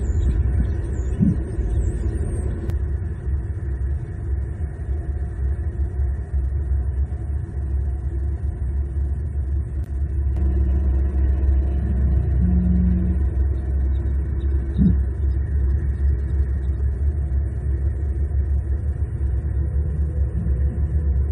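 Steady low rumble picked up by an outdoor nest-cam microphone, with a couple of faint high bird chirps near the start.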